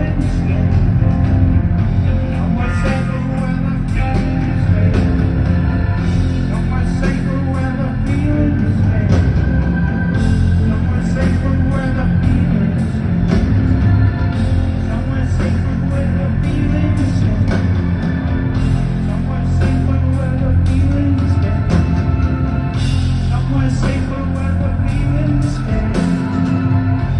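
Live rock band playing: electric guitars, bass and drums with a steady beat, loud and full throughout.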